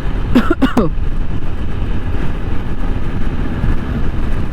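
A single-cylinder TVS Apache 160 4V motorcycle running at riding speed, with a steady low rumble of engine, wind and road noise. About half a second in there is a brief falling warble.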